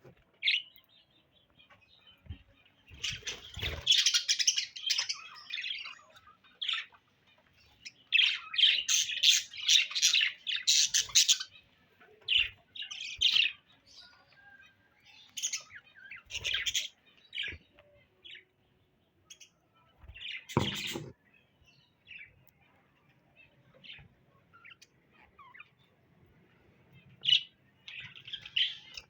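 Small birds chirping in bursts of rapid, high chirps that come and go, with short pauses between the bursts. A few low thumps sound among them.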